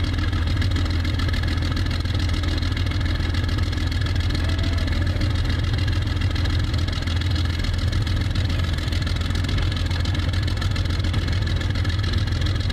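Tank engine running steadily in the cold at idle, a constant low drone with no change in speed.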